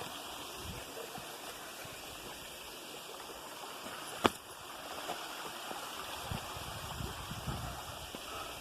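Stream water rushing steadily, with a single sharp click about four seconds in and some low bumps near the end.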